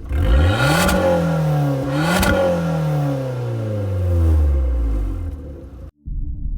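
Abarth 500/595's turbocharged 1.4-litre four-cylinder revved through an aftermarket exhaust: two quick rev blips, each with a sharp crack at its peak, then the revs falling slowly back. It cuts off abruptly near the end, followed by a steadier, lower engine sound.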